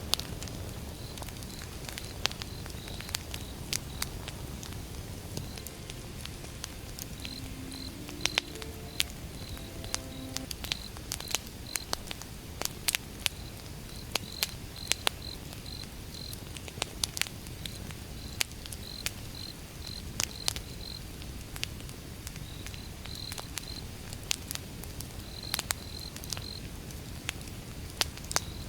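Campfire of burning wood crackling: sharp, irregular pops over a low steady rumble. Crickets chirp in short repeated trills behind it.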